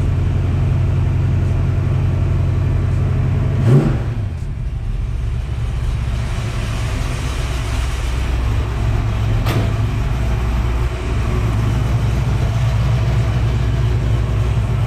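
1967 Mustang's 331 stroker small-block Ford V8 running steadily at idle, freshly refilled with oil and being watched for leaks, with a brief louder blip about four seconds in.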